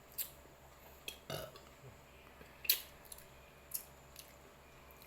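A person eating: a few brief, scattered smacks and clicks of chewing and of handling food and utensils, against a quiet background.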